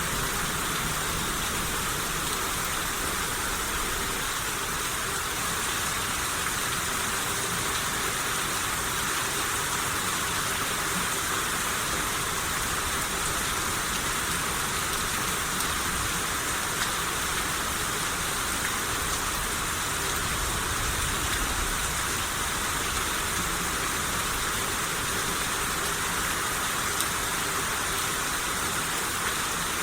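Steady rain shower falling, an even hiss of rain on surfaces with a low rumble underneath and no let-up.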